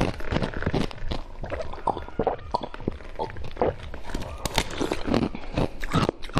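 Ice being bitten and chewed close to the microphone: a rapid, irregular series of sharp crunches.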